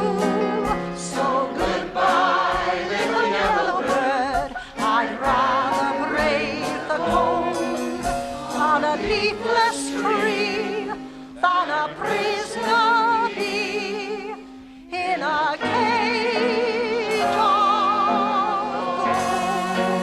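Singing with vibrato over orchestral accompaniment, closing a sentimental music-hall ballad.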